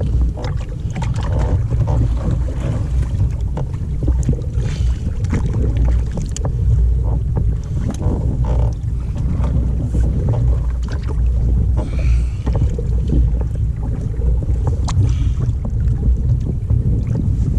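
Wind buffeting the microphone on a kayak at sea, with a steady low rumble, scattered small knocks and a few brief splashy hisses of water against the hull.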